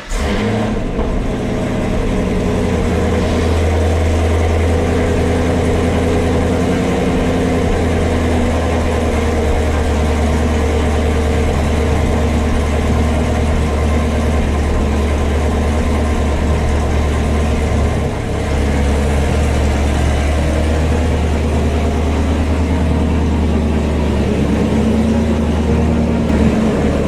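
Motor vehicle engine idling steadily, a deep low drone, with a brief dip in level about 18 seconds in.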